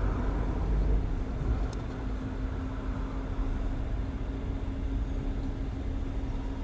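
A car driving with its windows open: low engine and road rumble with tyre hiss. The hiss eases after the first couple of seconds, and a steady hum sets in about two seconds in.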